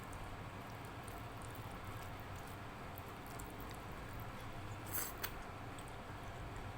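Close-up eating sounds of rice and dal being eaten by hand: small wet clicks and squelches, with a sharper pair of clicks about five seconds in, over a low steady hum.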